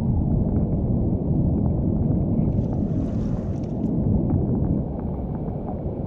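Wind buffeting the microphone in a steady low rumble, with a brief higher hiss about halfway through.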